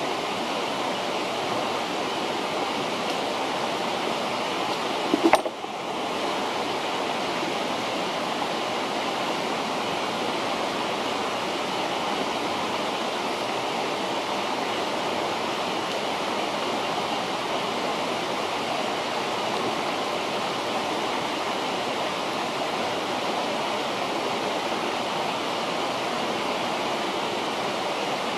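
A river flowing, a steady rush of water. About five seconds in there is a brief louder noise, and the rush dips for a moment after it.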